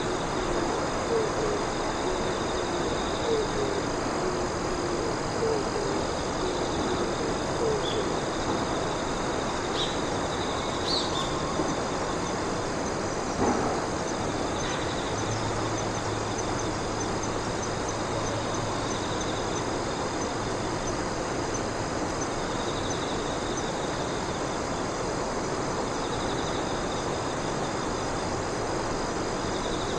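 Insects calling together: one holds a steady high trill while another chirps in pulsed bursts of a few seconds, with a fast ticking joining in the middle. A repeated low call sounds over them during the first eight seconds, and a single sharp click comes about 13 seconds in.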